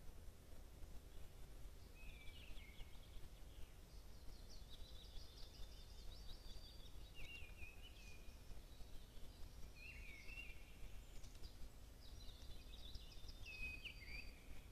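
A songbird singing several short phrases of chirps and trills, starting about two seconds in, over a low steady background rumble.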